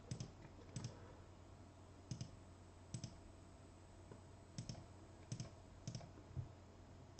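Faint scattered clicks, about eight in all at uneven intervals, over a steady low hum.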